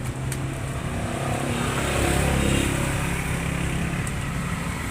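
A motor vehicle engine running steadily, growing louder a couple of seconds in and then easing off.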